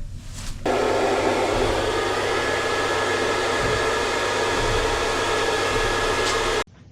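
An electric tool running steadily for about six seconds, starting and stopping abruptly.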